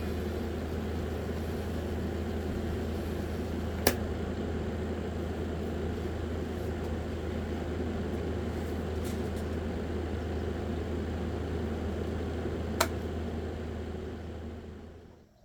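Small electric fan motor of a homemade mini air conditioner running with a steady low hum. There are two sharp clicks, one about four seconds in and one near the end, and then the hum fades out.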